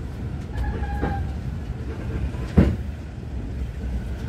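Passenger train rolling past at a station, with a steady low rumble of wheels on rail and one sharp loud clunk about two and a half seconds in.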